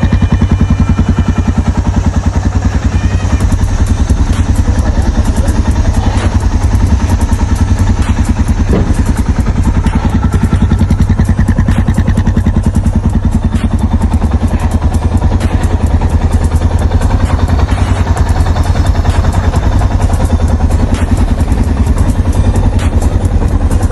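Suzuki DR650's single-cylinder four-stroke engine idling steadily, a loud, even run of exhaust pulses.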